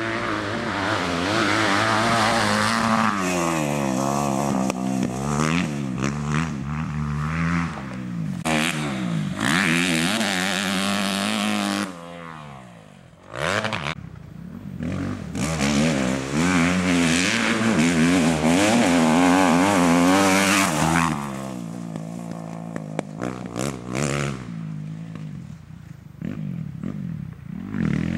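Kawasaki KX250F's 250 cc four-stroke single-cylinder engine revving hard as the motocross bike is ridden, pitch climbing and falling through the gears. The throttle is shut briefly about twelve seconds in before the engine picks up again, and it runs lower and quieter near the end.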